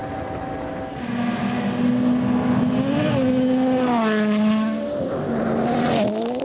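Rally car engine at high revs, pulling hard through several quick gear changes: the note climbs and drops back repeatedly. It comes in about a second in, after a steady drone.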